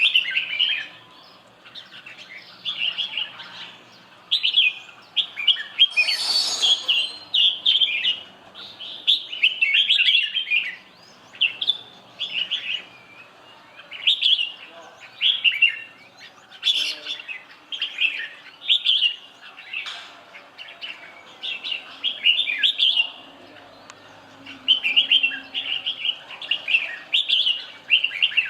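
Red-whiskered bulbul singing: short, bright warbling phrases repeated every second or two, with a brief noisy burst about six seconds in.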